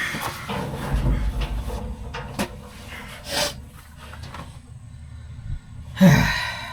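Scattered knocks, clunks and scrapes of metal machine parts being handled and fitted on a haybine drive, with a brief grunt-like vocal sound near the end.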